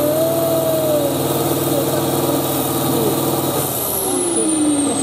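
Off-road trial truck's engine running hard under load, with a high whine over it. About three and a half seconds in, the engine eases off and the whine falls away.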